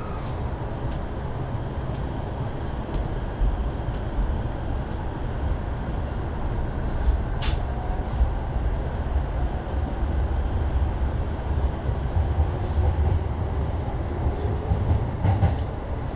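Running noise of an electric commuter train heard from inside the passenger car: a steady low rumble with a faint rising whine in the middle and later part. A single sharp click comes about seven and a half seconds in.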